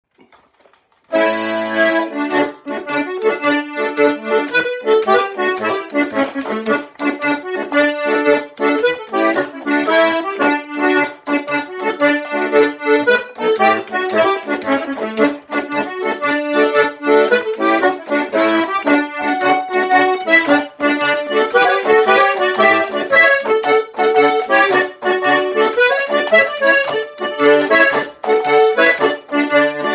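An English folk dance tune played on an accordion, starting about a second in: a quick, busy melody over short bass notes.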